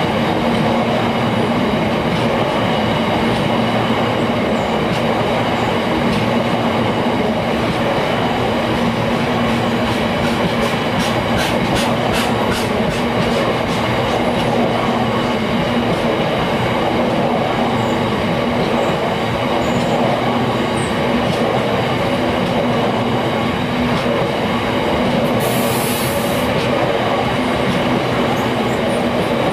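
Freight train rolling past steadily, its wagon wheels clicking over the rail joints, with a quick run of clicks about ten to thirteen seconds in and a brief hiss near the end.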